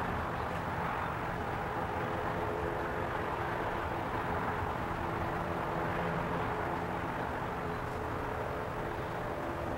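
Steady engine drone with a noisy rush over it and a few faint steady tones.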